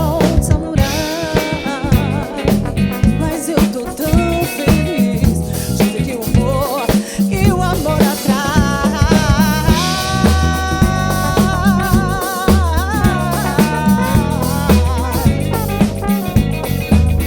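Band playing an upbeat samba-funk groove: drum kit, bass guitar and guitar, with percussion and keyboard. A melody line over it holds long, wavering notes in the middle.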